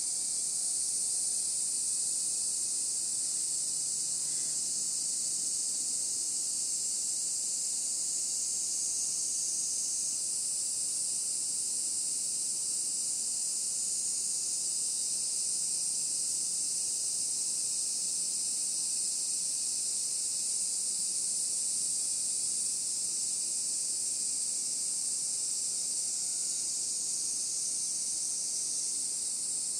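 Steady, unbroken high-pitched chorus of insects, with a few faint short chirps now and then.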